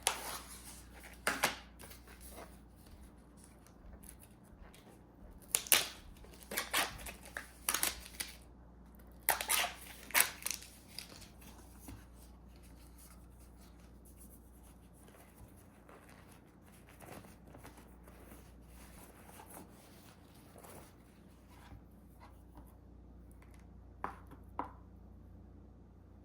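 Kitchen food-preparation sounds: groups of sharp snips and clicks, busiest in the first ten seconds, then a few scattered ones, with a pair near the end, over a low steady room hum.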